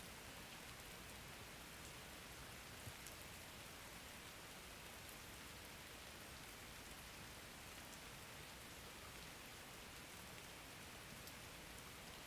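Faint, steady rain falling, with a few light drop ticks.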